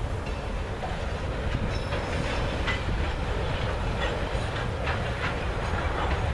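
Freight train of tank cars rolling slowly past: a steady rumble of steel wheels on rail, with clicks of wheels over rail joints and a few brief high squeaks.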